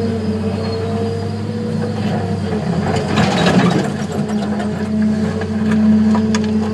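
Heavy diesel engines of an excavator and a scraper running steadily. About three seconds in comes a brief rush of rock and dirt with scattered clatter, as a bucket load is dumped into the scraper bowl.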